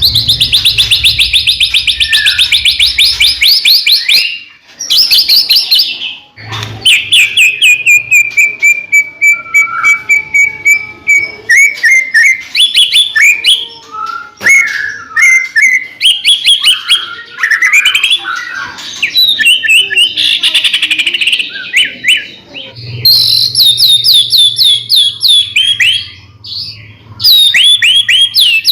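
White-rumped shama (murai batu) singing loudly and continuously in varied phrases: fast rattling trills at the start and again about two-thirds through, with a long, slowly falling whistle a few seconds in.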